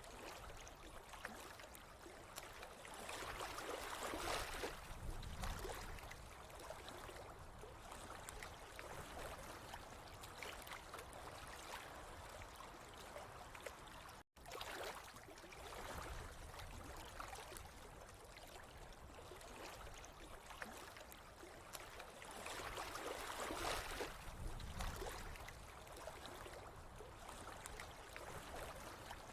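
Water running and trickling steadily, swelling louder twice, with a momentary cut to silence about halfway through.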